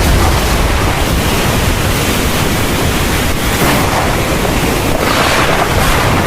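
Heavy thunderstorm rain pouring in a loud, steady hiss over a low rumble, swelling louder briefly about three and a half and five seconds in.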